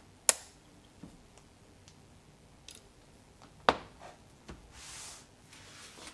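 Two sharp clicks about three and a half seconds apart, with a few lighter taps between them and a brief soft hiss about five seconds in, typical of art tools being handled.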